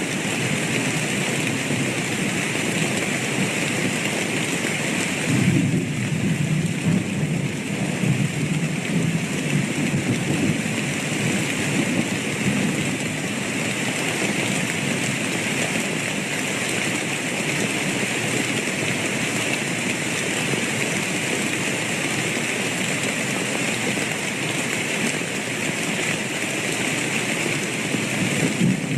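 Steady heavy rainfall, with a low roll of thunder rumbling for a few seconds about five seconds in.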